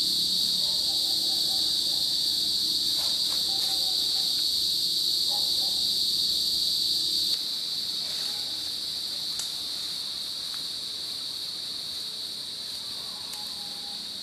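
A steady, high-pitched chorus of tropical forest insects buzzing without pause, dropping slightly in loudness about halfway through.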